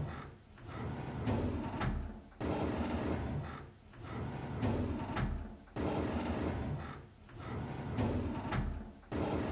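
A drawer being slid open again and again. Each slide lasts about a second; some start abruptly and others swell in, and the pattern repeats about every three and a half seconds.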